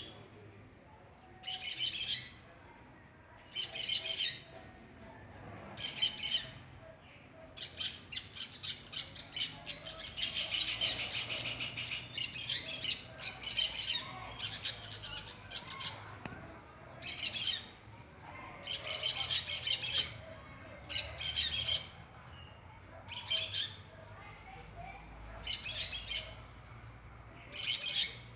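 Birds singing: short bursts of rapid high chirps about every two seconds, thickening into a longer continuous run of chirping in the middle.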